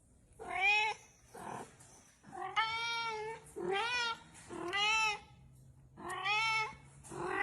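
A cat meowing over and over: about six drawn-out meows in a row, each lasting half a second to a second, with short pauses between them.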